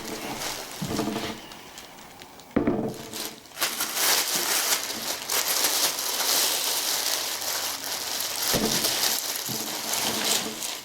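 Steady crackly rustling and crinkling, starting about three and a half seconds in: handling noise as the crankshaft is brought out to be shown.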